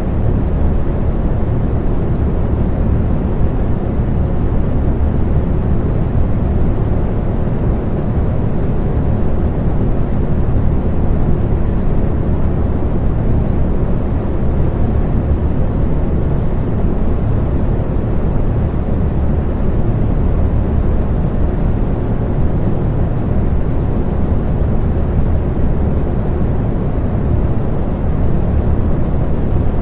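Electric fan running steadily: a low, even whooshing noise with a faint hum.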